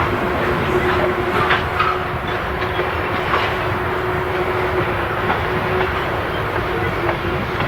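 Freight train cars rolling past: a steady rumble and clatter of wheels on the rails, with a few brief wheel squeals about a second and a half in.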